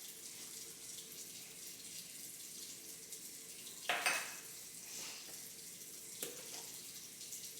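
Faint steady hiss of running water, with a brief clatter about four seconds in and a lighter knock near the end.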